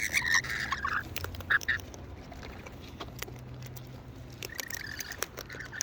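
Wild parrots calling close by: a held, nasal call for about the first second and again near the end, with small clicks in between.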